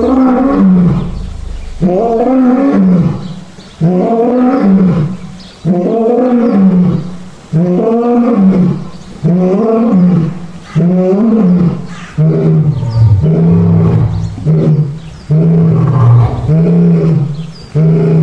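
Lion roaring in a bout: about seven long calls, each rising and falling in pitch, roughly two seconds apart, then a faster run of shorter calls about one a second for the last third.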